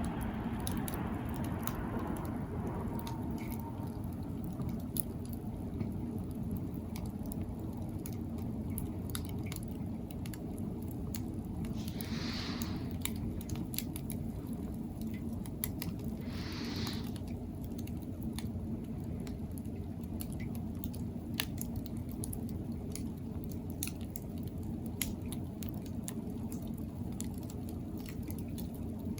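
Wood campfire burning, with frequent sharp crackles and pops over a steady low rumble. Two brief high-pitched hisses come about twelve and seventeen seconds in.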